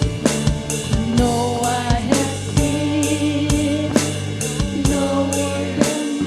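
Live worship band playing a slow Christian song: a drum kit keeps a steady beat about twice a second under sustained bass, guitar and keyboard chords, with a voice singing over it.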